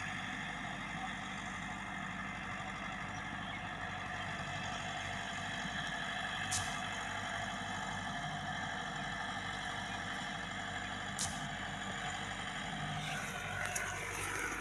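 Tractor diesel engine running steadily, with two brief sharp clicks about halfway and two-thirds of the way through.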